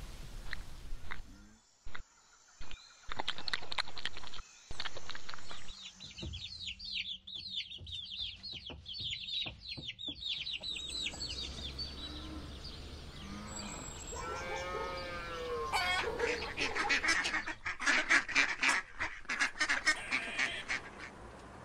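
Young chicks peeping in a long run of high, thin cheeps, followed later by honking calls from a goose or duck and a dense, rapid run of calls near the end.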